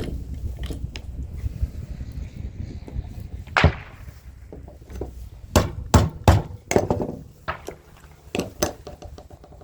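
Hand tools knocking and clinking against small metal and plastic parts while scrap electrical components are pried and pulled apart: a scattered run of sharp knocks, the loudest about three and a half seconds in and three in quick succession around six seconds.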